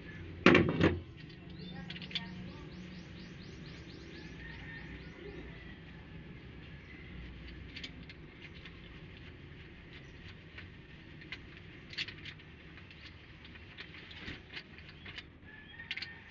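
Hand tools at work on an engine: a loud clank about half a second in, then a fast, even run of clicks for a couple of seconds, then scattered light clicks and taps.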